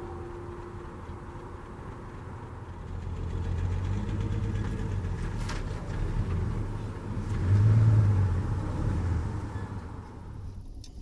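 A vehicle engine running. It builds up about three seconds in and is loudest near eight seconds, then falls away near the end.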